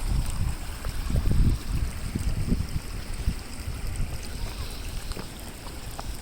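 Creek water running over rocks, with irregular low rumbling gusts that are loudest in the first second and a half.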